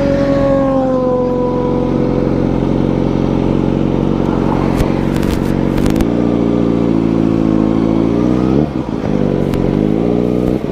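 Motorcycle engine riding off: the revs fall away at first, hold steady, then climb, drop sharply at a gear change about eight and a half seconds in, and climb again.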